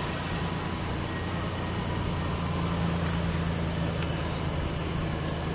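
Ford Explorer's engine idling steadily, a low even hum, with a steady high-pitched hiss above it.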